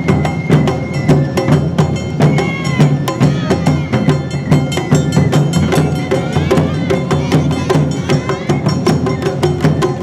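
Awa Odori festival band music: percussion with a quick steady beat of sharp clacks and drum strokes, under a bamboo-flute melody with bending notes.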